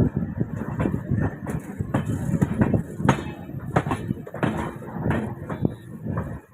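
Passenger train coach running on the track, heard from inside: a steady low rumble with irregular knocks and rattles.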